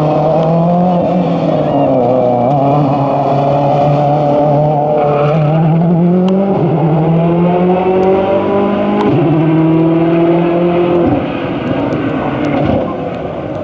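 Rally car engine accelerating hard up through the gears. Its pitch climbs within each gear and drops at each of about three upshifts, then the sound fades away near the end as the car moves off.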